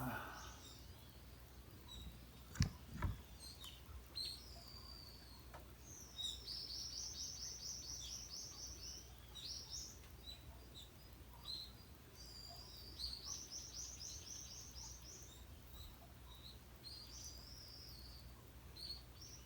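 A songbird singing in short high phrases, twice breaking into a fast rattling trill lasting a couple of seconds. Two sharp knocks come close together about two and a half seconds in.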